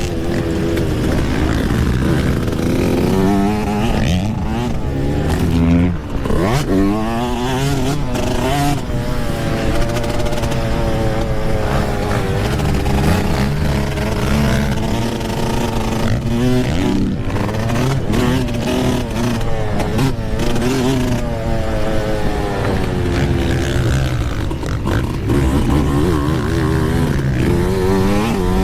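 Yamaha YZ125 single-cylinder two-stroke dirt bike engine being ridden hard round a motocross track, its pitch rising and falling again and again with throttle and gear changes, with a sharp drop and climb about six seconds in.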